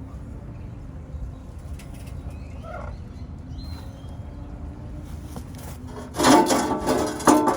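Low steady background rumble with a few faint chirps in the middle, then a loud scraping, rubbing clatter for a little over a second near the end.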